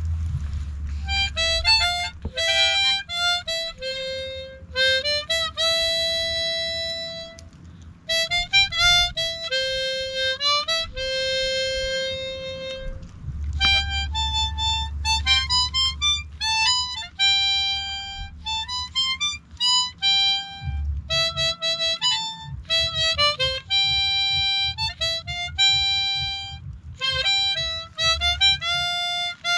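Harmonica playing a melody of held notes in short phrases with brief breaths between them, with a low rumble underneath at times.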